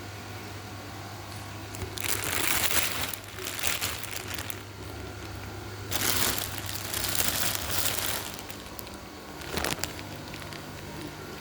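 Crinkling and rustling of something being handled, in three bouts: two of about two seconds each and a short one near the end, over a steady low hum.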